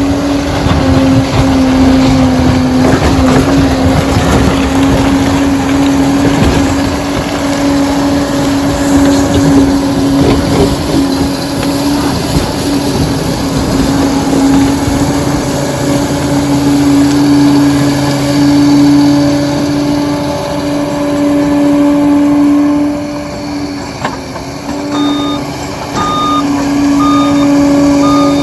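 Liebherr PR 746 crawler dozer working: its diesel engine running hard under load with a steady whine, and rattling and knocking through the first half. About 25 seconds in, its reversing alarm starts beeping in an even repeated pattern as the machine backs up.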